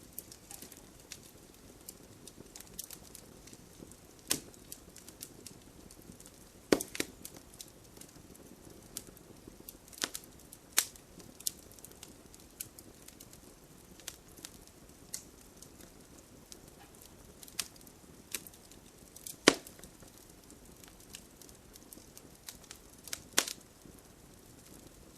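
Campfire burning: burning wood crackles with scattered sharp pops over a low, steady hiss, several of the pops standing out louder.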